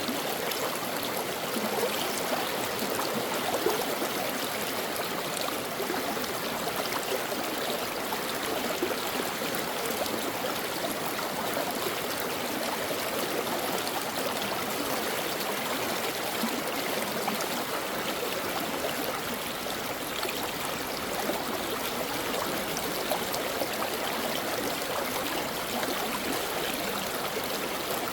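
Brook water flowing steadily, a continuous babbling rush with small gurgles and trickles.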